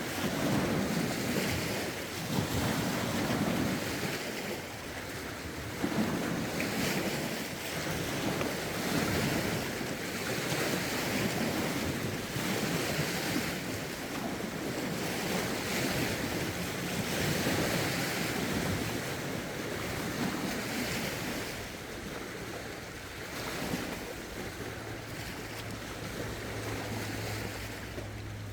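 Lake waves washing ashore in swells every two to three seconds, with wind buffeting the microphone. A low steady hum joins near the end.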